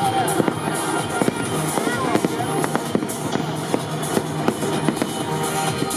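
Aerial fireworks bursting in quick, irregular succession, sharp bangs with crackling, over music playing throughout.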